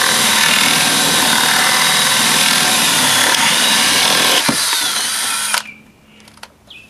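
Power drill running and boring into wood, with a brief break about four and a half seconds in before it stops about a second later.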